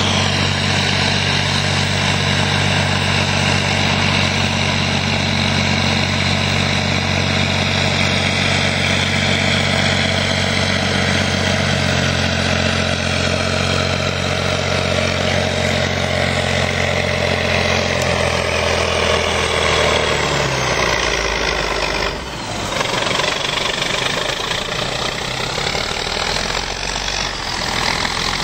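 Steiger four-wheel-drive tractor's diesel engine running steadily. About twenty seconds in its low, even engine note drops away, and the sound turns rougher and noisier for the rest of the time.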